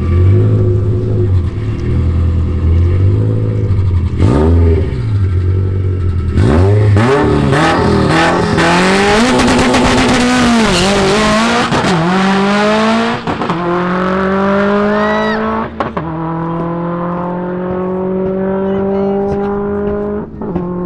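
Car engine revving and accelerating hard, its pitch climbing and falling, with sharp gear-shift drops about 13 and 16 seconds in, then pulling steadily higher in the next gear.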